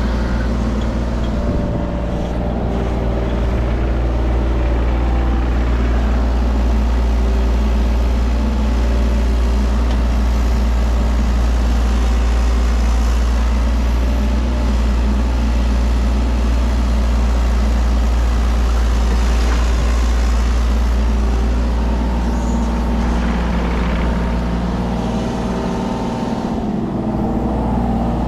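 Mini excavator's diesel engine running steadily, with a deep, even drone throughout.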